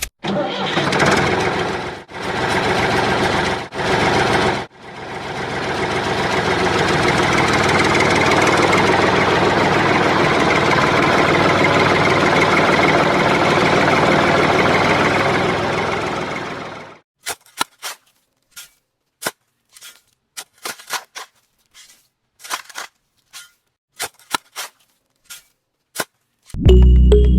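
Small motor of a DIY mini tractor running, switched on and off a few times, then running steadily for about twelve seconds before stopping. Scattered clicks and taps follow.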